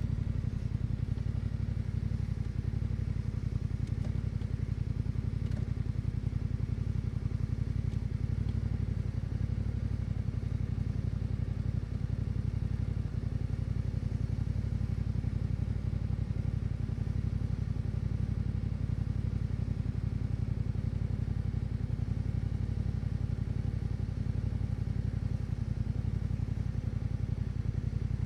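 Yamaha Ténéré 700's 689 cc parallel-twin engine running through an Akrapovič exhaust at steady revs, with little change in pitch.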